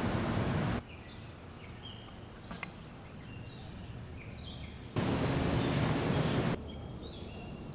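Outdoor sound cut together from separate takes: a loud, steady rushing noise breaks off abruptly about a second in, giving way to a quieter stretch where small birds chirp and twitter. The rushing noise returns suddenly around five seconds in, and the birds come back for the last second or so.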